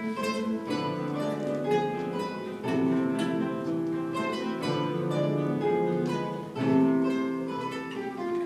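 Guitar ensemble playing: many quickly plucked notes over held lower notes, several parts at once.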